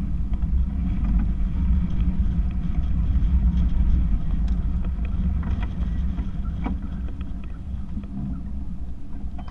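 Low, steady rumble of a catamaran under way in gusty wind, rising and falling in level, with a few faint knocks and clicks about two-thirds of the way through.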